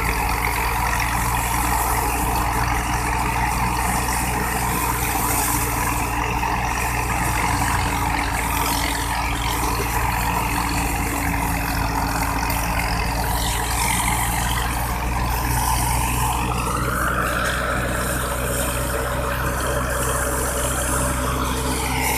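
Wheat thresher and the engine driving it running steadily, with a deep even hum under a higher rushing band. About three quarters of the way through, the higher band rises in pitch and stays there.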